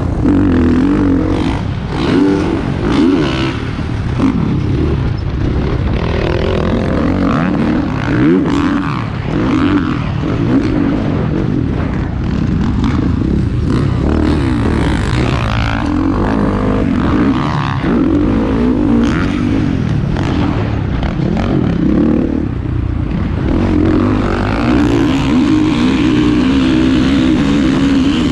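Several motocross bikes running on track, their engines revving up and down as they accelerate and back off.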